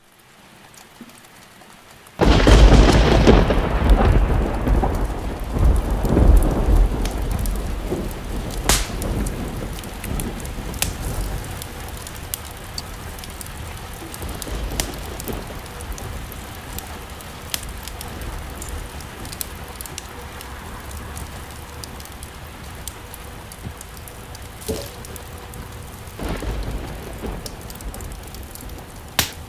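Thunder: about two seconds in, a sudden loud clap with a deep rumble that fades over several seconds, then a second, softer rumble near the end. Steady rain runs underneath, with scattered sharp clicks.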